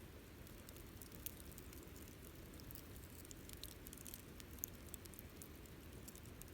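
Wood campfire crackling softly: scattered sharp pops and snaps, two a little louder about a second in and past the middle, over a steady low rumble of burning.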